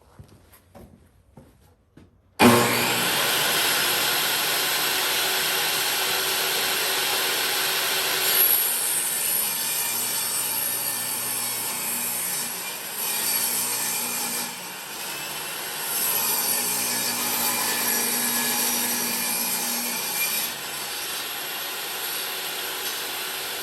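An old table saw switched on a couple of seconds in after a few small handling clicks, then running and ripping a softwood construction board lengthwise down the middle, the sound changing several times as the wood is fed through the blade.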